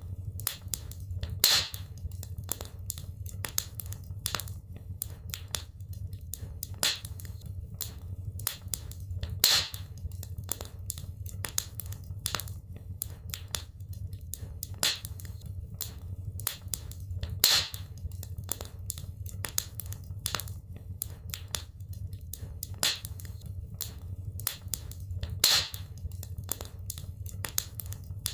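Wood fire crackling in a fireplace: a steady run of irregular sharp crackles, with a louder pop about every eight seconds, over a low steady rumble.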